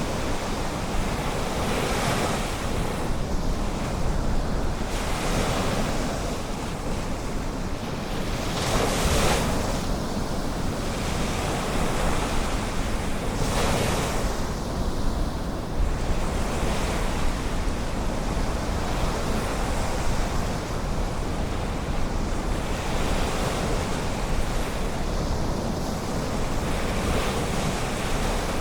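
Ocean surf breaking on a beach, the wash swelling every few seconds, with wind rumbling on the microphone.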